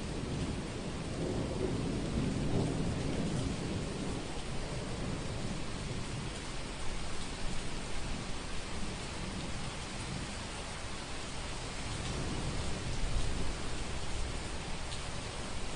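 Steady rain with low rolling thunder, a rumble that fades over the first few seconds and swells again briefly near the end.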